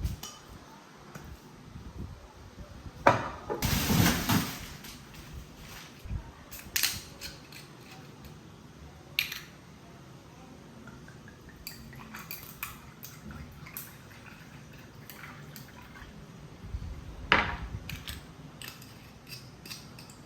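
Kitchen handling sounds: scattered clicks and clinks of dishes and cutlery, with a short noisy rush about four seconds in and another near the end.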